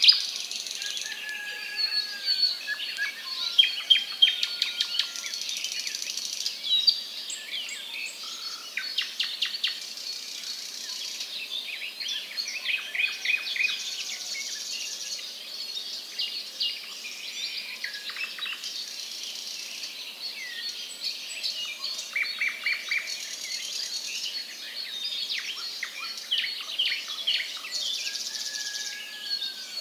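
Birds chirping and calling: quick trains of high chirps, a new burst every second or two, with a few short whistles in between.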